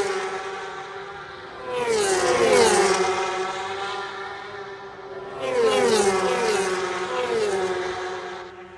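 MotoGP racing motorcycles passing at speed in two groups, each bike's engine note sweeping down in pitch as it goes by, over a steady engine drone.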